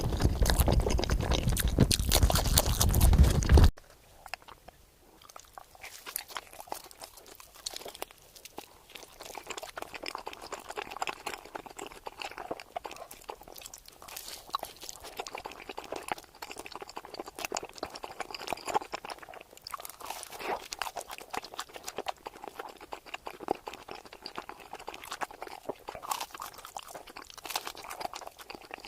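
Close-miked eating of pizza: crunching bites and chewing. Loud for the first few seconds, then after a sudden cut the bites and chewing are quieter and crisper, in irregular crackles.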